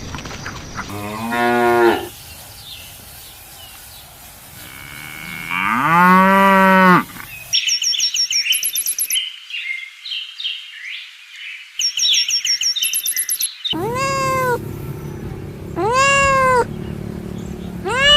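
A run of animal calls: two low, drawn-out moos from a cow, then several seconds of quick high-pitched chirping, then a cat meowing over and over, about once every two seconds.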